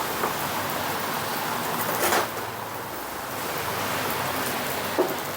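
Steady hiss of pork sizzling on a barbecue grill mixed with rain, with a few short clicks.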